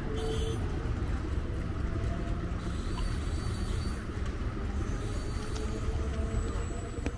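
Distant Katwa–Howrah electric local train (EMU) approaching the station: a steady low rumble with a faint whine that comes briefly near the start and again toward the end.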